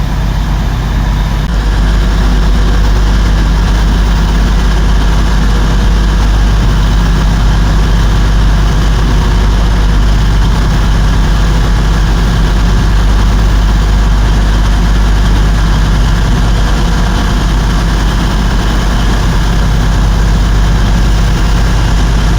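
Diesel train engine idling at a station platform: a steady, unchanging low rumble.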